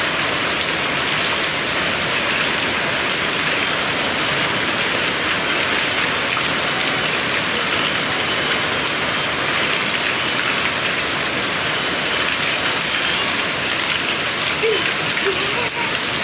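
Steady rain falling, an even hiss of drops at a constant level.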